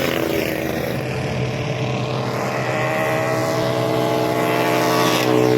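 A vehicle engine running at high revs. Its pitch climbs slowly and it grows a little louder through the second half.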